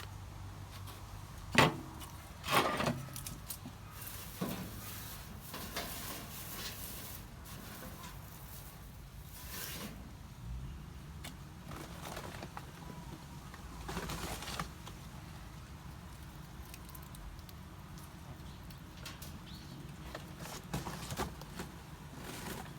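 Scattered sharp knocks and rustling as a homemade barbecue grill and fire pit is handled and set up, with the loudest knock about a second and a half in and another cluster a second later.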